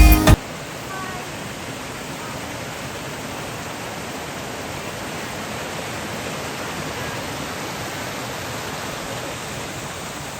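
Background music cuts off just after the start, giving way to the steady rush of a flowing stream.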